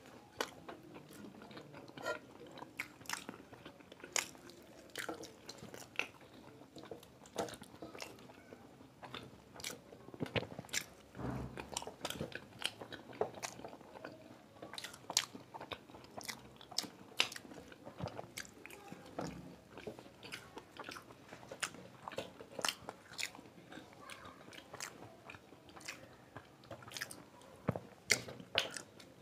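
Close-up chewing and biting of fried samosas and an aloo chop: wet mouth sounds with many small, sharp crunches and clicks at irregular intervals.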